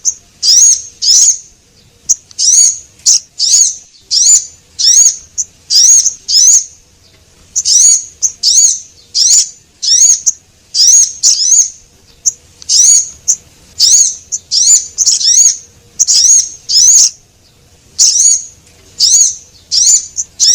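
Recorded bird-lure calls of a small songbird, the sogon (male and female), played on a loop: short, high, sharply curved chirps, usually in quick pairs or threes, repeating about two to three times a second with only brief pauses.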